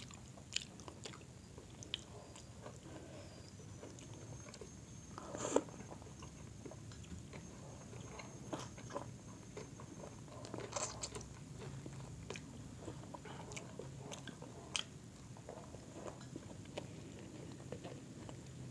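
Close-up eating sounds: biting and chewing grilled chicken and rice eaten by hand, with scattered small clicks and smacks. Two louder bites come about five and a half and eleven seconds in.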